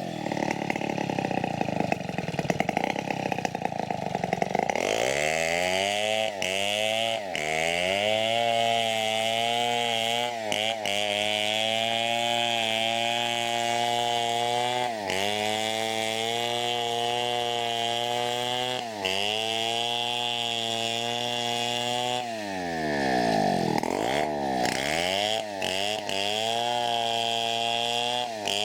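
Large two-stroke Stihl chainsaw running near full throttle while ripping teak lengthways, its engine note dropping sharply and recovering several times as the cut loads it or the throttle eases.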